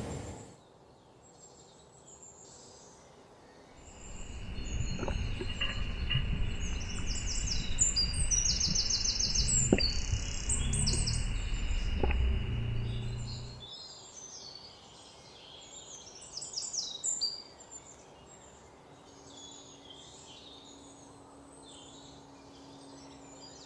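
Small birds chirping and twittering throughout. For about ten seconds in the middle, a loud low rushing noise with a few sharp clicks plays under the birdsong and then cuts off abruptly.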